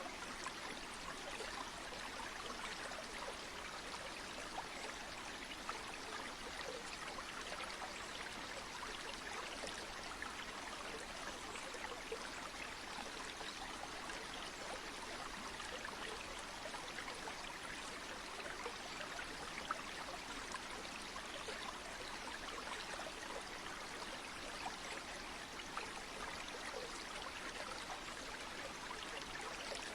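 Steady rushing of flowing stream water, an even hiss flecked with fine splashing and trickling that does not change.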